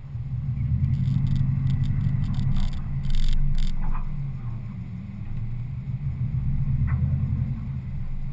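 Car engine running at low speed, a steady low rumble as the car rolls slowly over grass, with a few brief scrapes about three seconds in.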